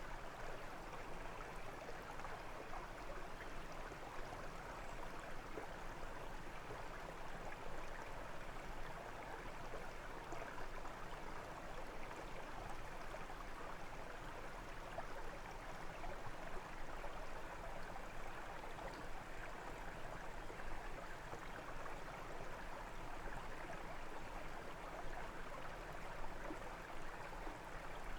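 A brook flowing over stones, a steady babbling and splashing of water.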